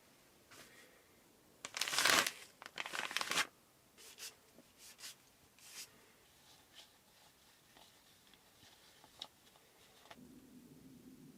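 Crinkling and rustling of something being handled, loudest for about two seconds near the start, followed by lighter scattered rustles and taps, with a low steady hum starting near the end.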